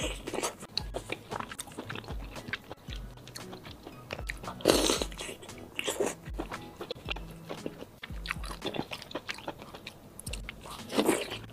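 Close-miked biting and chewing of a braised pork intestine ring from a chili-oil bowl: a run of short wet mouth clicks, with louder bites about five seconds in and again near the end.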